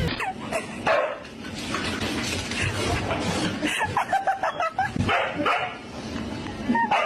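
A dog barking and yipping in many short calls.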